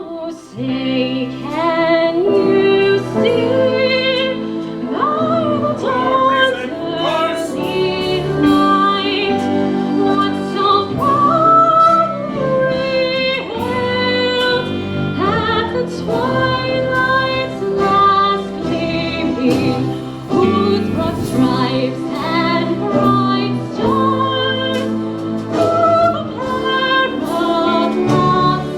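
Singing of a national anthem, one sustained melodic phrase after another over steady accompanying notes.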